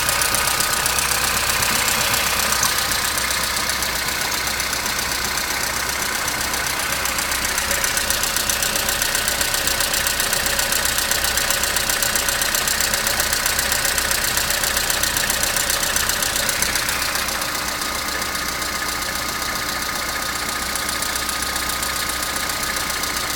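Opel Astra G 1.4 16-valve four-cylinder petrol engine idling after a cold start, with a rattle that seems to come from somewhere at the back; the owner says it is new. The level eases slightly about two-thirds of the way in.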